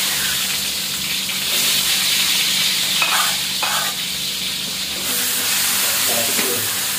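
Scrambled egg sizzling as it fries in a wok on a gas burner, with a spatula stirring it and scraping the pan now and then.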